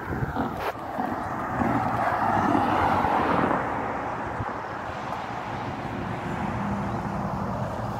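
A passing motor vehicle: a rushing noise that swells over the first few seconds and then eases off to a steady background hum.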